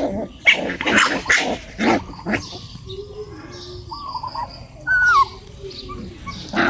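Dog barking: a quick run of short barks in the first two seconds, then quieter, higher pitched calls.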